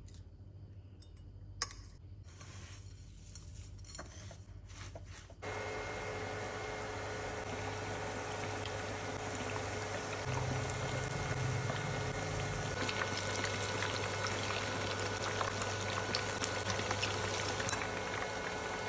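Breaded chicken deep-frying in hot oil: a few light clicks, then about five seconds in a steady sizzle with dense crackling starts abruptly and carries on.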